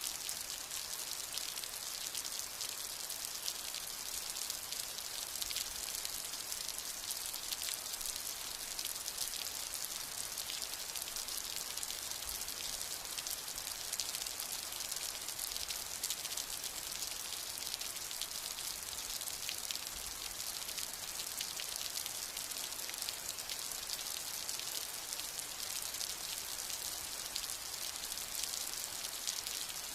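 Steady rain falling: an even hiss of many fine drops with no change in strength and no thunder.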